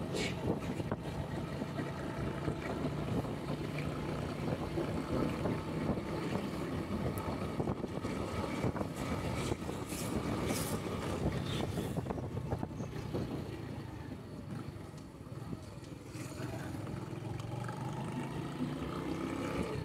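Honda Pop 100's small single-cylinder four-stroke engine running steadily while riding, with wind noise on the microphone. The engine eases briefly about three quarters of the way through.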